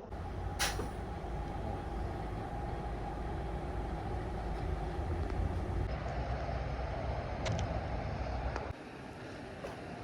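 Scania truck on the move: a steady low rumble of engine and road noise, with a sharp click about half a second in and a couple of faint clicks later. The rumble drops a little in level near the end.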